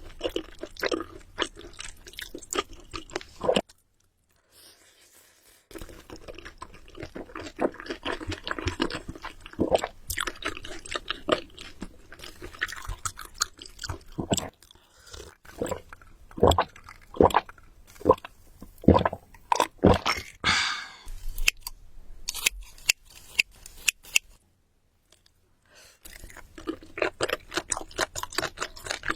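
Close-miked eating: a person chewing seafood with wet, crunchy clicks and smacks, broken twice by about two seconds of dead silence.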